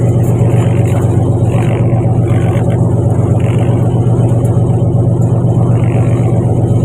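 Fishing boat's engine running with a loud, steady low drone.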